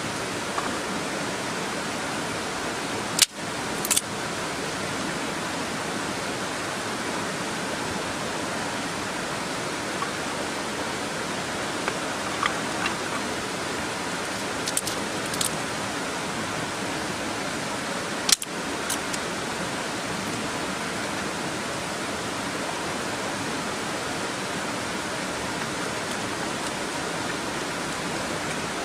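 Steady, even rushing of a nearby mountain stream, with a few sharp clicks and clinks on top, about 3, 4, 15 and 18 seconds in.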